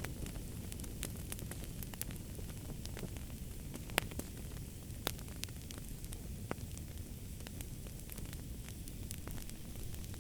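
Wood fire crackling in a fireplace: a steady low rumble of flames with frequent sharp pops and snaps, one louder pop about four seconds in.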